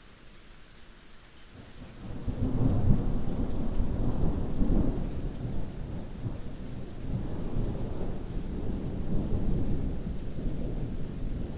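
Heavy rain falling, with a long low rumble of thunder rolling in about two seconds in and swelling again several times.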